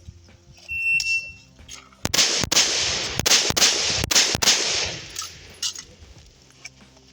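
A shot timer beeps once with a short high tone, and about a second later a rifle fires a rapid string of about seven shots, roughly three a second, each followed by echo.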